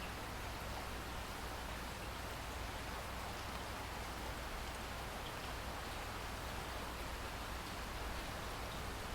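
Steady rain falling, an even hiss that holds constant with no thunder.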